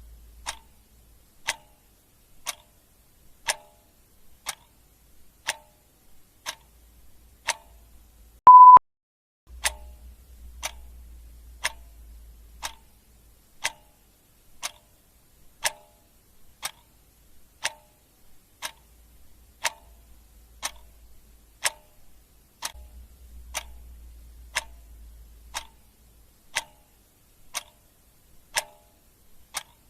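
Clock ticking steadily, about once a second. A single short, loud, steady-pitched beep sounds about eight and a half seconds in.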